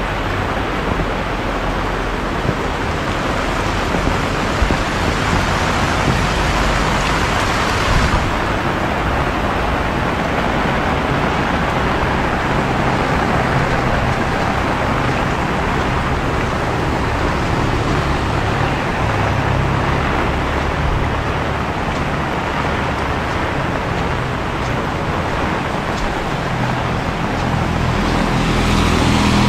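Heavy rain pouring down steadily, a loud even hiss with a low rumble beneath. Near the end a low motor hum swells in over the rain.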